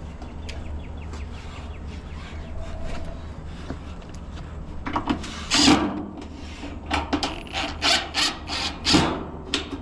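Tools and equipment being handled: rubbing and scraping, then a run of loud knocks and clatters in the second half, over a steady low hum.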